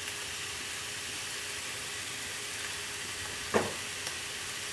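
Fried rice with carrots and peas sizzling steadily on a hot Blackstone flat-top griddle as soy sauce is squeezed over it. A single short, sharp sound cuts in about three and a half seconds in.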